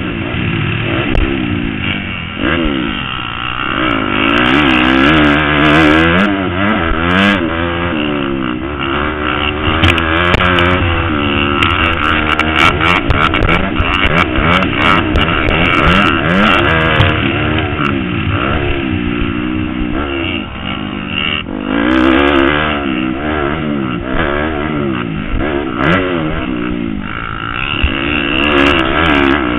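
Motocross motorcycle engine revving hard, its pitch rising and falling again and again with throttle and gear changes, with a brief drop in level a little past the two-thirds mark.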